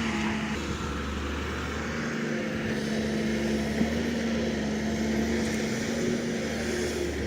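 Diesel engine of a heavy earthmoving machine running steadily under work, with a single brief knock about four seconds in.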